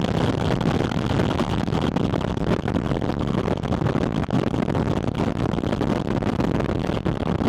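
Porsche 718 Spyder RS on the move, its naturally aspirated flat-six heard through a microphone fixed on the air intake: a loud, steady rush of intake and wind noise with the engine underneath and no distinct revving.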